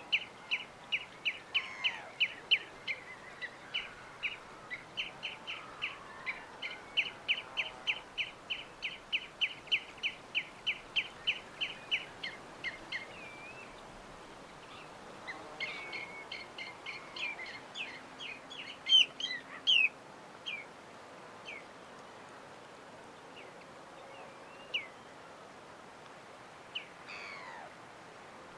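A bird repeating a short, high chirp about three times a second for some twelve seconds. After a pause, a burst of varied, louder chirps and calls follows, then a few scattered calls and a sweeping call near the end, over a faint steady hiss.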